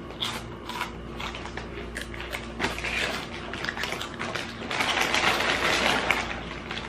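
Close-up crunching and chewing of crunchy Flamin' Hot Cheetos, a run of crackling clicks that thickens about three seconds in and gets loudest and densest from about five to six seconds.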